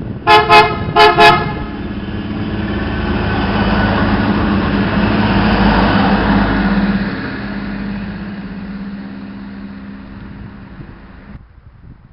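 A diesel train's horn gives four short blasts in two pairs. The train then passes, its engine and wheel noise building to a peak about six seconds in and fading away. The sound cuts off abruptly near the end.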